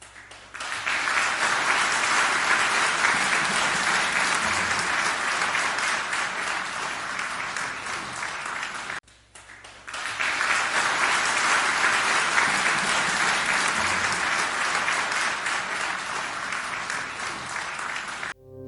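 Audience applause: many people clapping steadily, in two stretches of about nine seconds each with a brief break between them. The second stretch looks like a repeat of the same applause recording.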